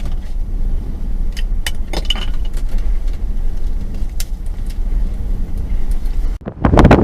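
Steady low rumble of a car running, with a few light clicks. About six and a half seconds in it breaks off suddenly into loud wind buffeting the microphone.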